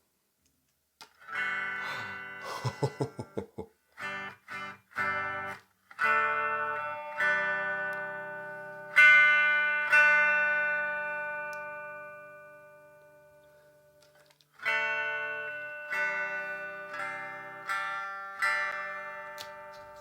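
Electric guitar played through a Blackstar Fly 3 Mini practice amp that has just been repaired and now works. It starts about a second in with a run of quick muted chord stabs, then chords are left to ring and fade, and more chords are strummed near the end.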